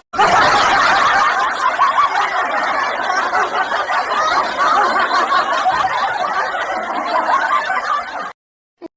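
A crowd of many people laughing together, a dense, steady wash of voices that cuts off suddenly about eight seconds in.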